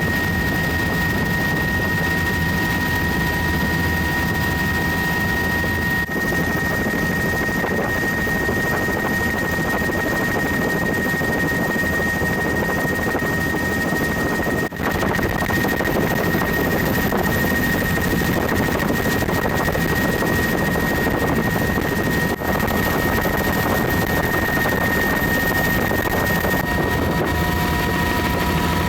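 Helicopter in flight, heard from inside the cabin with the doors off: steady rotor and engine noise with a steady high whine. The level dips briefly three times.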